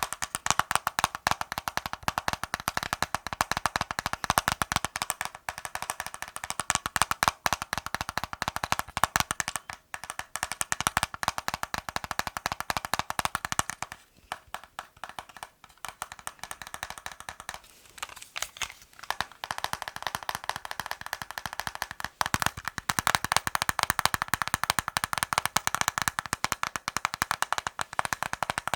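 Fast tapping on hard objects with the fingers, many taps a second without letup, easing off briefly about halfway through before picking up again.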